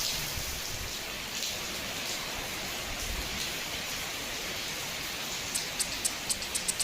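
Steady hiss of heavy rain falling. Near the end, a rhythm of sharp, quick high ticks comes in over it: the start of background music.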